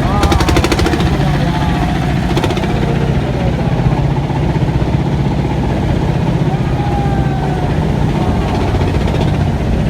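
Motorised river trawler's engine running steadily with a low drone, with a brief rapid rattle in the first second.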